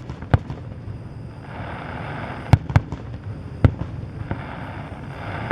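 Fireworks display: four sharp bangs of shells bursting, one just after the start, a quick pair about two and a half seconds in and another a second later.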